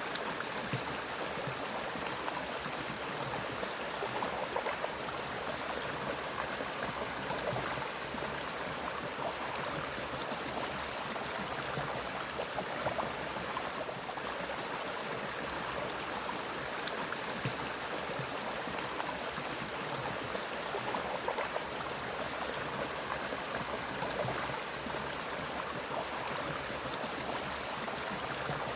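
Mountain stream flowing steadily through forest, an even rushing and splashing of water. A thin, steady high-pitched tone runs over it.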